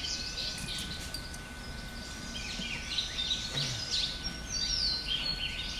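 Several wild birds chirping and calling over one another, with a few quick falling whistles near the end, over steady low background noise.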